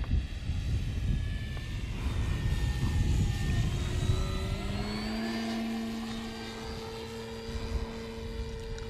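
Electric motor and propeller of an E-flite Carbon-Z Cessna 150 RC model plane whining in flight. Its pitch shifts during the first half and holds steady from about halfway. Gusty wind buffets the microphone throughout.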